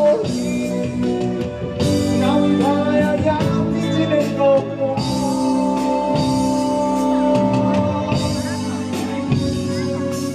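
Live band music in a rock style, with electric guitar and drum kit playing and long held notes.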